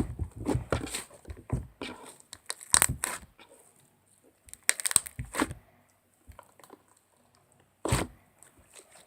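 Irregular short crackling and rustling handling noises, some in quick clusters, dense over the first few seconds, again around the middle, and once more with a single louder burst near the end.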